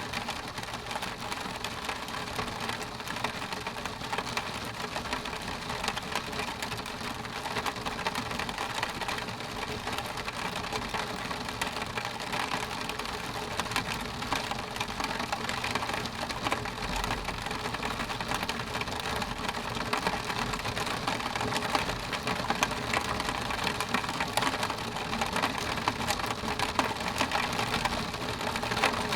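Steady rain pattering on a window pane, a dense hiss of many fine drop ticks, growing a little heavier towards the end.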